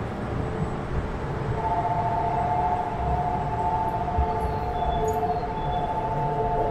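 Shinkansen train running at speed, heard from the vestibule between cars: a steady rumble, joined about a second and a half in by a steady two-note whine.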